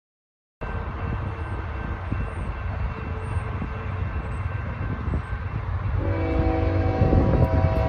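Diesel locomotive of a Norfolk Southern freight train rumbling as it approaches, growing louder, with its multi-tone air horn sounding about six seconds in. The rumble starts abruptly after a brief silence.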